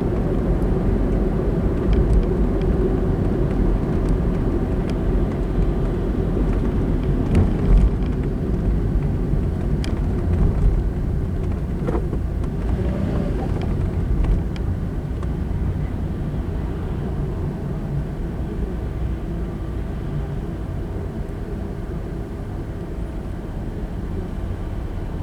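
Steady road and engine noise of a car being driven, heard from inside the cabin: a continuous low rumble of tyres and engine, easing slightly in the second half, with a few brief ticks.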